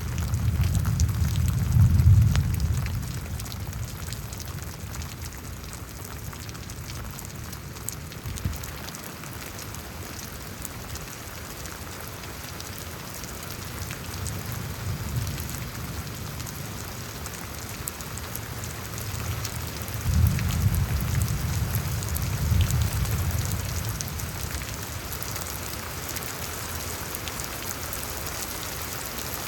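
Steady rain falling, with two swells of low rumbling thunder: one at the start and a longer one about twenty seconds in.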